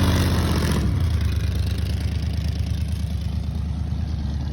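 An engine idling with a steady low rumble, settling down as higher noise drops away about a second in, then slowly fading.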